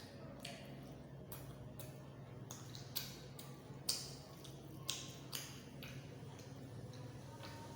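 A person eating close to the microphone: irregular wet chewing and lip-smacking clicks, with a few sharper, louder smacks in the middle, over a steady low hum.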